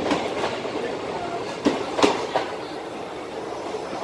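Passenger coaches of a departing express train rolling past, steel wheels clacking over the rail joints with a few sharp clicks about two seconds in. The rolling noise eases off as the last coach moves away.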